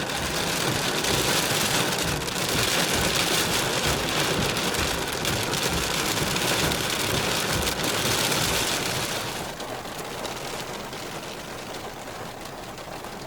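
Heavy rain beating on a car's roof and windows, heard from inside the car, easing off noticeably about nine and a half seconds in as the storm passes.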